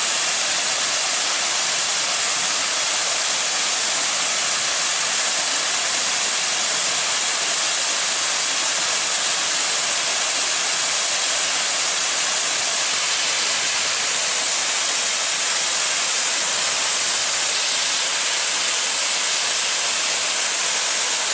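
Waterfall: a steady, dense rush of falling water, an even hiss with no breaks.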